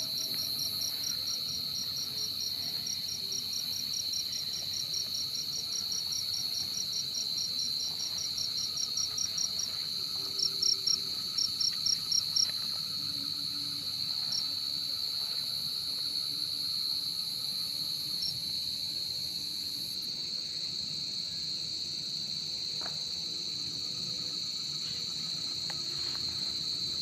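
Crickets calling at night. A steady high continuous trill from gangsir (large burrowing crickets) runs under a field cricket's chirps. The chirps come about four a second for the first ten seconds, then in a few louder groups, then only now and then.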